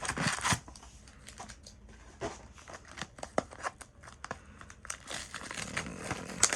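Foil booster-pack wrappers crinkling as they are handled: a burst of crinkling at the start, then scattered short crackles and clicks.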